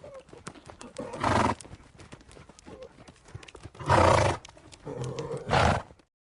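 A horse blowing out hard through its nostrils three times, loud and breathy, with light clicks like hoof knocks in between. The recording cuts off about six seconds in.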